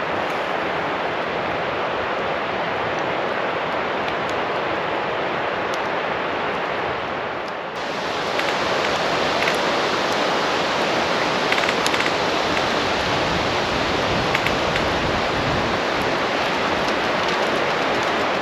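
Steady rushing noise with no tone to it. It turns louder and brighter about eight seconds in, and a few faint clicks come over it.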